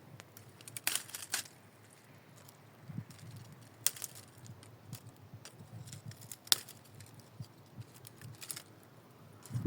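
A few scattered sharp clicks and snaps, irregular and well apart, over a faint low background.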